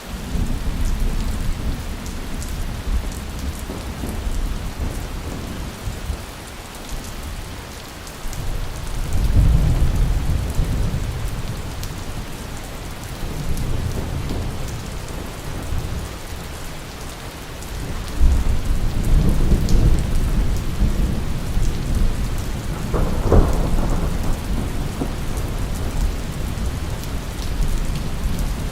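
Thunderstorm: steady heavy rain hissing, with thunder rolling in low rumbles that swell several times, and a sharper crack of thunder a little past two-thirds of the way in.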